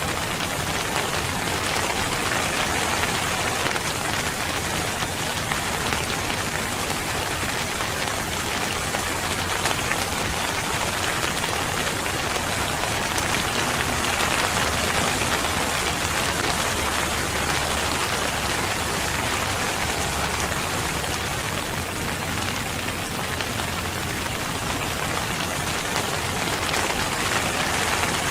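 Steady rain falling on a surface, a dense, even patter.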